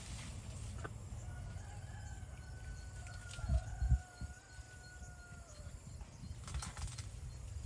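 A rooster crowing once in the distance: one long, faint call lasting several seconds. Under it runs a low rumble, and two dull thumps come about halfway through.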